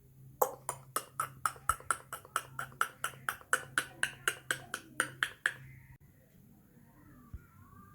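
Green ringneck parrot giving a rapid series of short, sharp calls, about four a second, that stop about five and a half seconds in; faint wavering chatter follows near the end.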